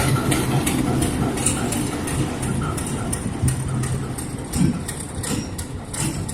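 ChME3 diesel-electric shunting locomotive rolling past, its engine running with a steady low hum while its wheels click over rail joints about twice a second. The sound grows fainter as it moves away.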